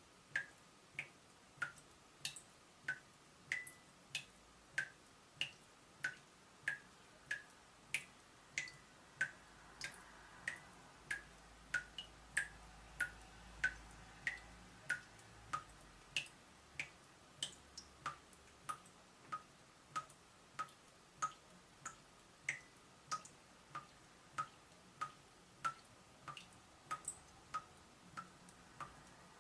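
Leaking tap dripping steadily, about three drops every two seconds, each a short plink whose pitch varies from drop to drop and settles lower in the last third.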